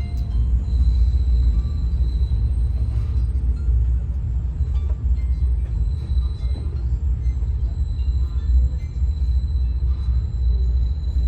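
Passenger train rolling along the track, heard from on board as a steady low rumble, with a faint steady high whine above it.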